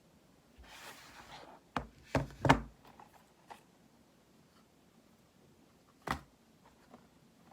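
Unboxing handling noises: a short rustle of packaging, then a few sharp knocks of items set down or tapped on a hard surface, the loudest in a quick cluster about two seconds in and a last one about six seconds in.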